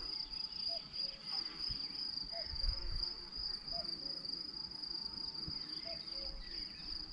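Crickets chirping in one steady high trill, with a fainter lower chirp repeating about once every second or so and a low rumble underneath.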